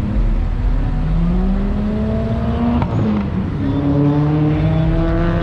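A car engine accelerating, its pitch climbing, then dropping at about three seconds in, as with a gear change, and climbing again.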